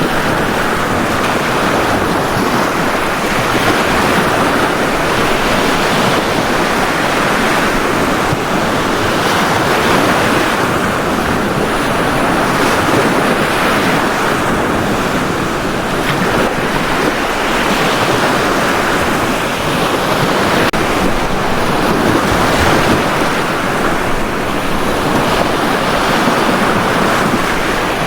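Sea waves breaking on a beach: a steady rush of surf.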